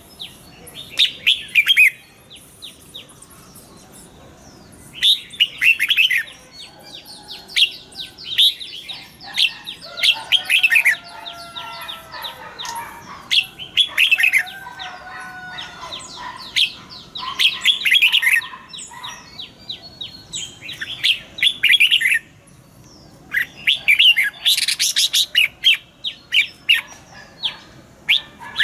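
Red-whiskered bulbul singing: bursts of rapid, chirpy song phrases, repeated every few seconds with short pauses between them.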